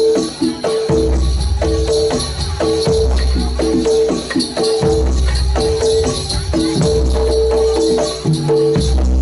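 Live jaranan gamelan music played loud through a sound system. Pitched metal gongs repeat a short figure over a deep bass beat that comes about every two seconds, with quick drum and rattle strokes in between.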